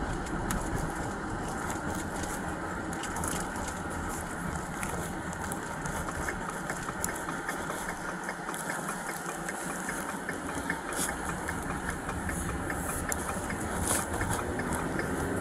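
Patrol car's engine running, heard from inside the cabin as a steady rumble mixed with cabin noise, with scattered light clicks.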